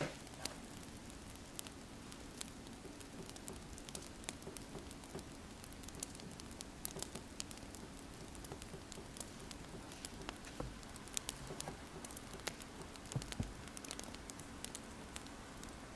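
Wood fire crackling, with irregular sharp pops scattered throughout, over the steady scratching of a pen writing on paper.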